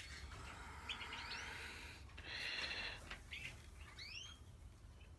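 Caged finches chirping faintly: scattered short chirps and quick rising calls, with a buzzy trill about two seconds in.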